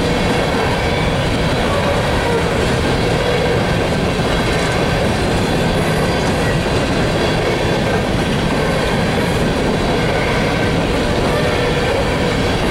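Empty coal gondolas of a unit coal train rolling past: a steady, unbroken rumble and rattle of steel wheels on the rails.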